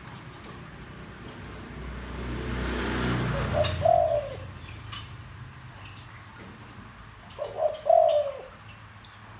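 Deep-voiced spotted dove cooing: two phrases about four seconds apart, the second of several notes ending in a longer drawn coo. A low rushing noise swells and fades just before the first phrase.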